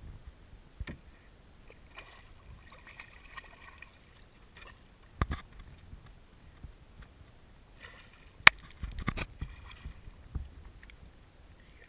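Scattered knocks and bumps on a fishing kayak as a redfish is pulled aboard and handled, with a sharp knock about eight seconds in and a short run of bumps just after it, over faint water noise.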